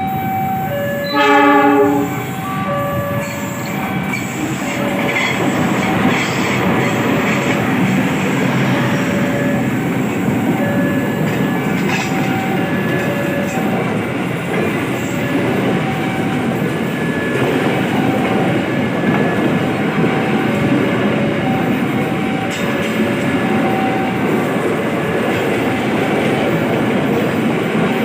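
A train sounds one short horn blast about a second in, then rumbles through the level crossing with steady wheel clatter on the rails. Behind it the crossing's warning signal keeps ringing, alternating two notes.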